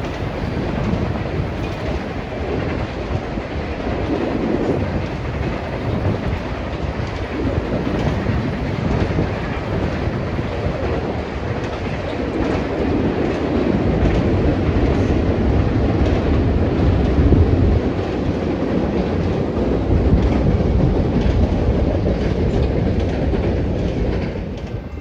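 Freight train rolling past at close range: a continuous rumble of the cars with steel wheels clattering on the rails, a little louder in the middle stretch.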